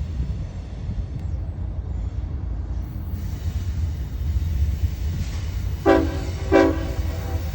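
CSX diesel locomotives of a three-unit freight consist running with a steady low rumble, and the lead locomotive's air horn giving two short blasts about six seconds in.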